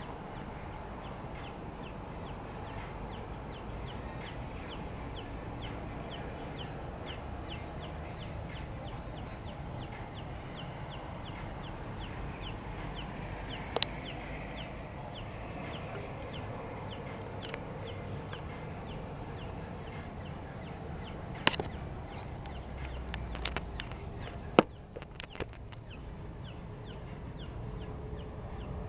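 A small bird chirping over and over, short high calls about two a second, over a steady low background noise, with a few sharp knocks in the second half.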